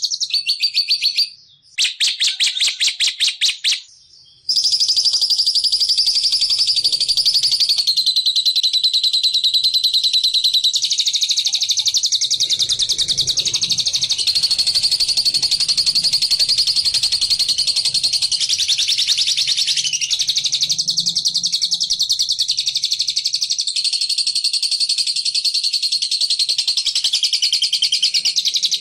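Small songbird's high-pitched, very rapid trilling chatter, held almost without pause and played as a lure song to draw in the same kind of bird. It breaks off briefly twice in the first few seconds.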